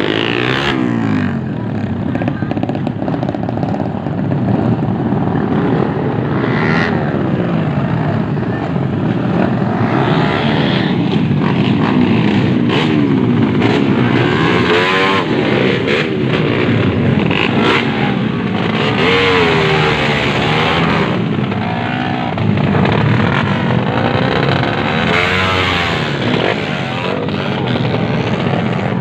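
Several motorcycle engines revving and passing, their pitch rising and falling again and again as they overlap.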